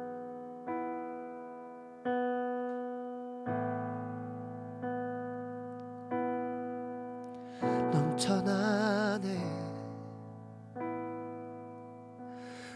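Worship keyboard playing slow, sustained chords, a new chord struck about every second and a half, each fading away. Partway through, a voice sings one long note with vibrato over it.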